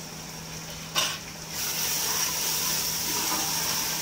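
Onion-tomato masala sizzling in hot oil in a steel pot as it is stirred with a metal spatula. There is a short knock about a second in, after which the sizzling grows louder and stays steady.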